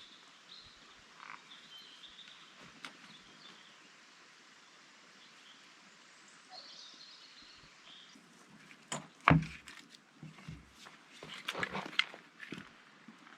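Quiet woodland ambience with a few faint bird chirps. In the second half comes a run of sharp knocks and crackles, one much louder than the rest, like footsteps or gear being handled on the forest floor.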